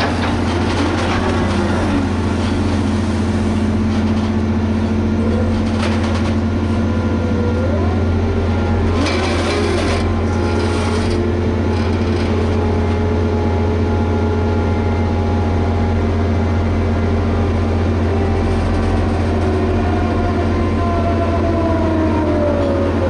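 Liebherr HS 8200 dragline's diesel engine running steadily under load with a deep constant hum, overlaid by whining tones that slowly shift in pitch, one falling near the end. Brief bursts of rushing noise come through about six seconds in and again around nine to eleven seconds.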